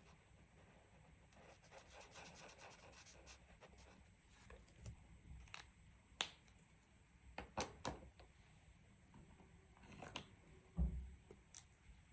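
Faint scratching and rubbing of coloring on a paper page, with a few sharp clicks in the middle and a soft thump near the end.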